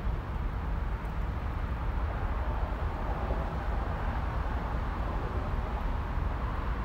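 Freight train of autorack cars rolling past close by, a steady low rumble of wheels on rail.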